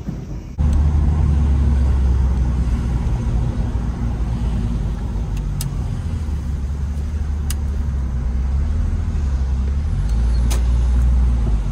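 Porsche 911 (993) air-cooled flat-six running as the car is driven: a steady low drone whose pitch shifts a few times.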